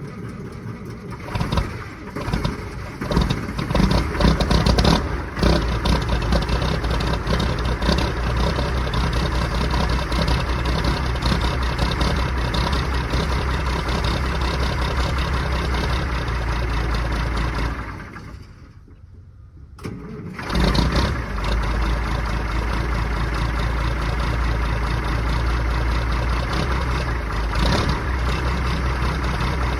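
Mack DM600 truck's diesel engine cold-starting in freezing weather: cranking, catching with uneven surges over the first few seconds, then settling into a steady idle. Past the middle the engine sound drops away for about two seconds, then comes back with a surge and idles on.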